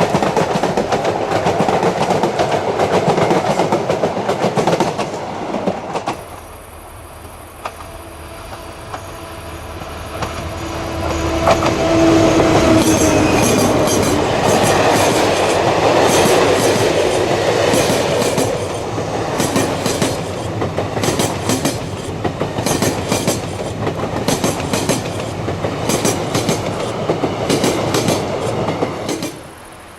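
A train running on the track, its wheels clicking rhythmically over the rail joints in the second half. The sound changes abruptly about six seconds in and cuts off suddenly near the end. A brief steady tone about twelve seconds in may be squealing wheels.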